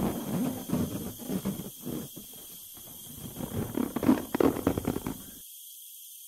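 Balloon rubber creaking and squeaking in quick, irregular bursts as it is inflated, stopping abruptly a little over five seconds in.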